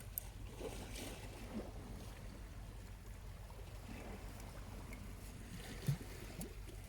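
Small waves washing gently on the shore, with a campfire's charcoal crackling now and then; a sharper pop about six seconds in.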